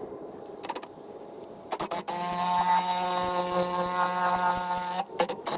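Impact wrench triggered in a few short bursts, then held on for about three seconds with a steady buzzing whine, then blipped again near the end. It is driving a press to push a bushing into the leaf spring eye.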